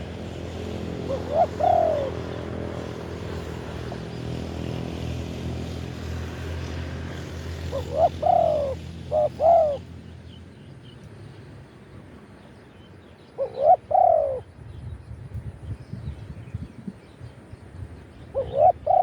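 Spotted dove cooing: short phrases of curved coos, given four times with pauses between, some phrases of a single coo and others of two or three. A steady low engine hum runs underneath for the first half and stops about halfway through.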